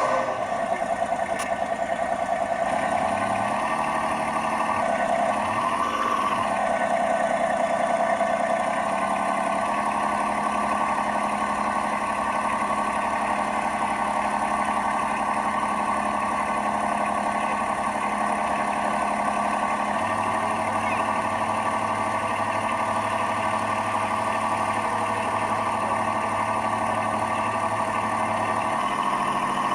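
Simulated diesel engine sound from a model lifeboat's onboard sound unit, running steadily. It shifts in pitch a few seconds in, and a deeper tone joins in for a stretch near the end. The unit is driven by a failing speed controller, which makes the engine sound erratic.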